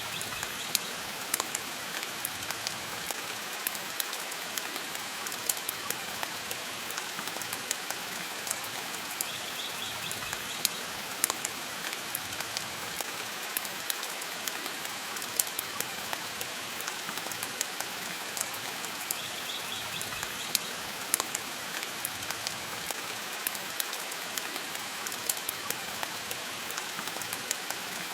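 Steady hiss of heavy rain, mixed with frequent sharp crackles and pops from a wood fire burning in a fireplace.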